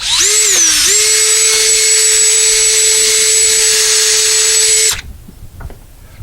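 Power drill running for about five seconds: a steady whine that sags in pitch briefly just after starting, then holds even, and stops abruptly.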